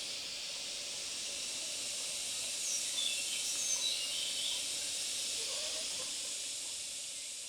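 Steady high-pitched hiss of forest ambience, with a few short bird chirps in the middle.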